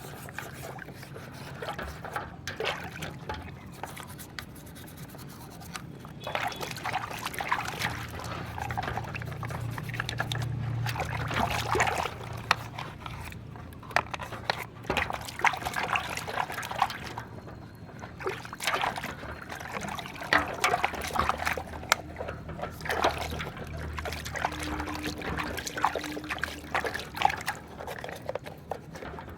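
Water splashing and trickling as muddy toy vehicles are washed by hand, with many small clicks and knocks of the toys being handled.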